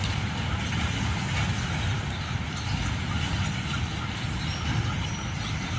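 Freight train running past with a steady low rumble.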